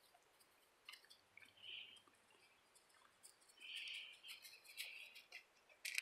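Faint sounds: a few short bird chirps, the clearest about two and four seconds in, over light scuffling footsteps.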